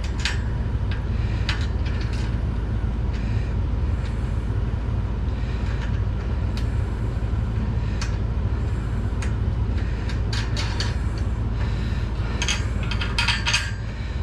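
Scattered metal clicks and clinks of small hardware being handled and fitted by hand, with a cluster of them near the end, over a steady low hum.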